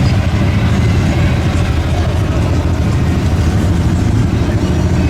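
A vehicle engine running steadily, its sound mostly low-pitched and even throughout.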